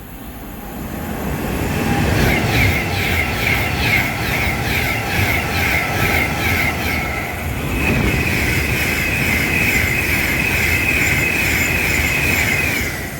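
Train running past on the West Coast Main Line: rumbling wheel and rail noise builds about a second in, with a high rhythmic squeal of the wheels over it, and cuts off abruptly near the end.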